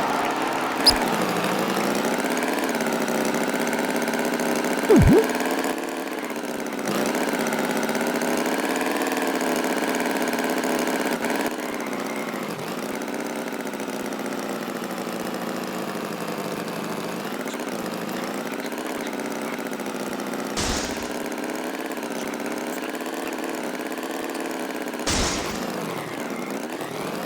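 An engine running steadily, its pitch wavering gently up and down, with a few brief knocks.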